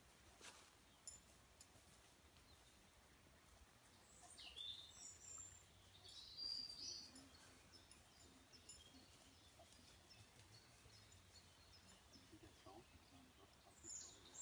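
Near silence, with a few faint, short songbird chirps at intervals.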